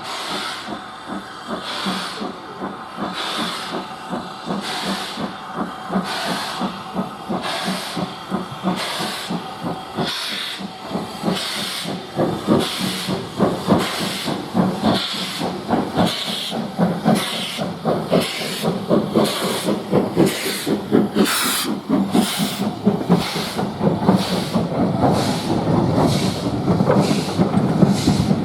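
Steam locomotive working a train, its exhaust chuffing in even beats at about one a second, growing louder as it approaches.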